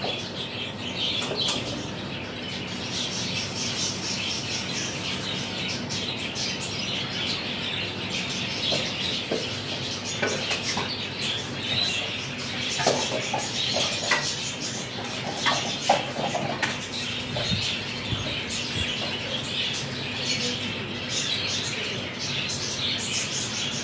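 Birds chirping continuously in the background, with a few short clicks in the middle.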